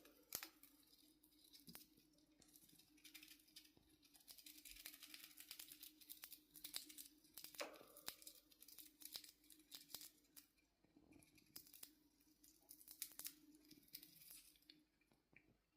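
Faint, irregular clicks and scratchy cracking as a pet chipmunk gnaws open in-shell peanuts, over a steady low hum.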